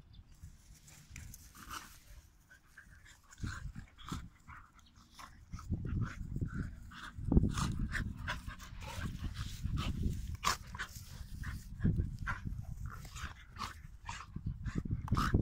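Dogs play-fighting: scuffling with short dog sounds, quieter at first and busier from about six seconds in.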